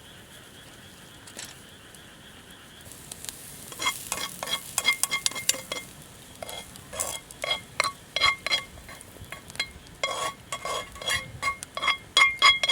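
A metal utensil stirring and scraping in a metal camp pan while food sizzles. From about four seconds in come repeated clinks, each leaving the pan ringing briefly at the same pitch.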